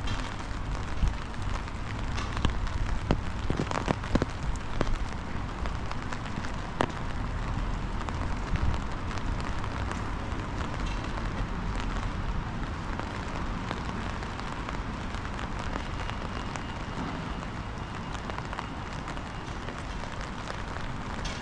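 Steady rain hiss with wind rumbling on the microphone, and scattered sharp drips and taps, most of them in the first half.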